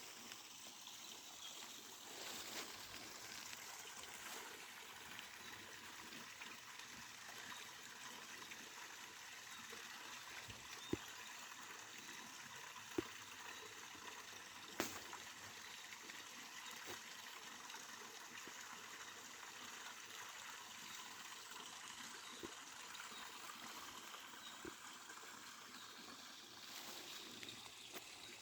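Forest stream flowing: a faint, steady rush of running water, with a few small sharp clicks in the middle.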